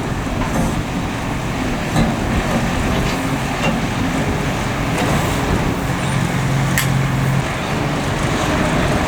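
Excavator diesel engines running steadily, a low hum with a deeper tone swelling for a second or so about six seconds in, and a few sharp knocks.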